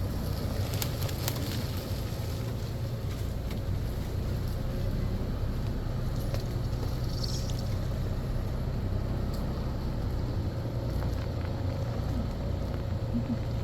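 Four-wheeler engine running steadily while riding over a rough wooded trail, with scattered short knocks and rattles.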